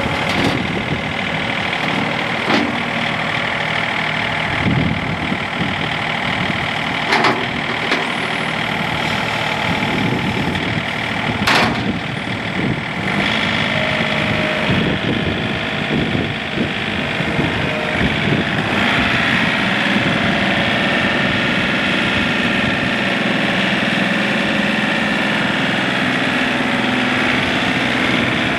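The John Deere 3032E's three-cylinder Yanmar diesel engine running steadily, with a few sharp clanks in the first half and a fuller, busier sound from about two-thirds of the way through.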